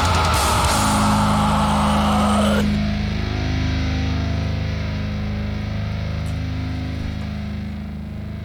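Hardcore punk music with distorted guitars and drums playing at full band. About three seconds in, the band stops abruptly and a low distorted guitar chord rings on, slowly fading.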